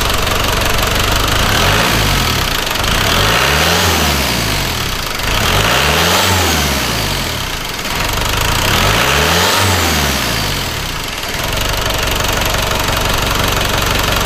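Land Rover 200Tdi four-cylinder turbodiesel engine idling and revved up and back down three times, with a faint whistle rising and falling with each rev. The engine is running with its drive belts freshly tightened, and the owner finds it sounds better.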